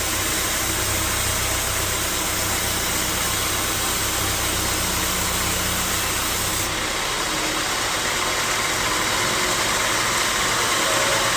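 Sawmill machinery running with a steady engine-like hum and noise; about two-thirds of the way through the low hum drops out abruptly and a steady, thinner machine noise carries on.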